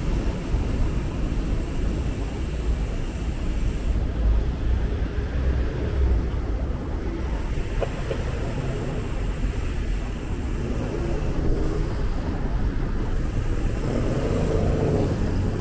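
Steady road traffic noise of a city street, cars passing, with a strong low rumble. Faint short high-pitched chirps come and go in the first half.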